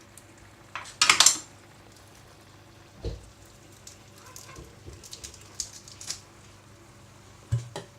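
Cookware being handled on a hob: a short rattling rush about a second in, then scattered clinks and two dull knocks of a pan.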